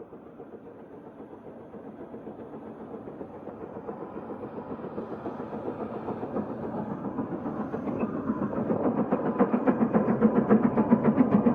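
Case 150 steam traction engine's exhaust chuffing in a fast, even beat as it pulls a 44-bottom plow under heavy load, growing steadily louder as it comes closer.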